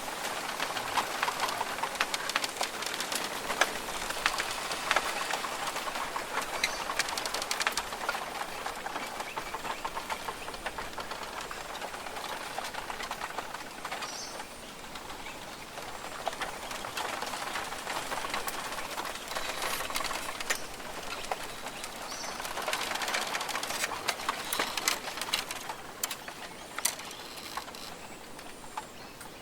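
Australian rainforest ambience: a steady, dense crackling patter with short high bird calls now and then, swelling and easing twice.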